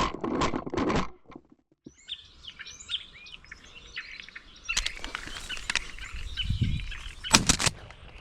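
A flock of European starlings and house sparrows chattering and chirping continuously, after a loud rustle in the first second. A sharp loud crack comes about five seconds in, and a louder cluster of sharp sounds comes near the end.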